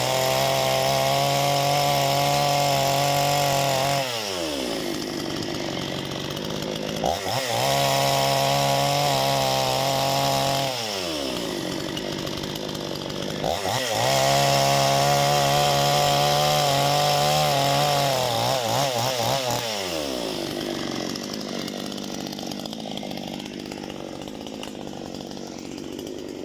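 Parma BP-058 two-stroke petrol chainsaw held at full throttle three times, for about four seconds, about four seconds and about six seconds, each time dropping back to idle, cutting firewood. It idles through the last few seconds.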